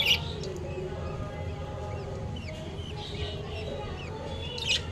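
Baby parrots chirping in short, high calls. A loud chirp comes right at the start and another near the end, with fainter ones between, over a steady low hum.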